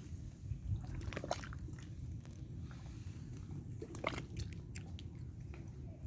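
Breeze rumbling on the microphone with water lapping, giving a few short wet clicks and splashes about a second in and again around four seconds in.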